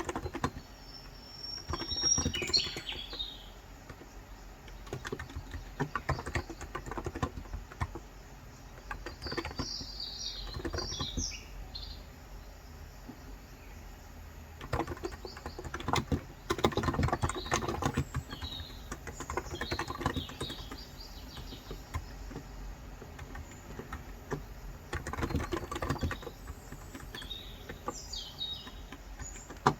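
Typing on a Cox Endeavor electro-capacitive (non-contact) 35 g tenkeyless keyboard, keystrokes coming in runs with short pauses between. Birds chirp in several short bouts over the typing.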